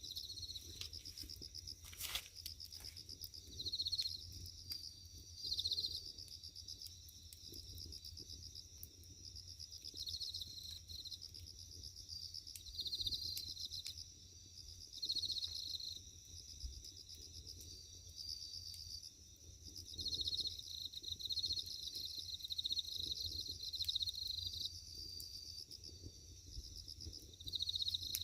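Insects chirping in repeated high pulsing trills that come and go in bouts every second or two. Under them a firewood fire crackles, with a sharp pop about two seconds in.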